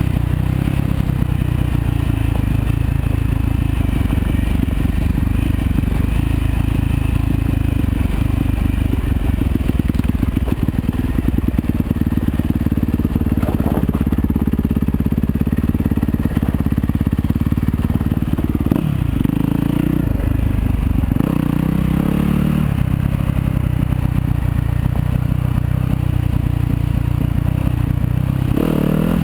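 Yamaha YZ250FX dirt bike's 250 cc four-stroke single-cylinder engine running as it is ridden off-road, its pitch falling and climbing with the throttle, with a quick rev-up near the end.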